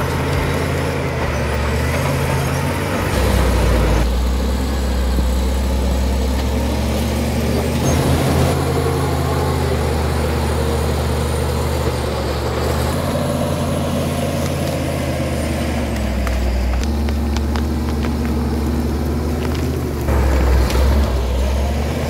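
Caterpillar D7 crawler bulldozer at work: its diesel engine runs loud and steady, the pitch shifting a few times, with scattered clanks.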